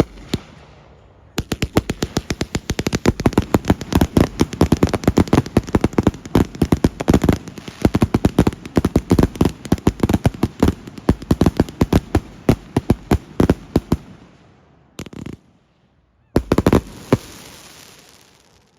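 Fireworks going off in a rapid run of sharp bangs, several a second, for about twelve seconds. After a pause comes a single bang, then a short final cluster of bangs that dies away.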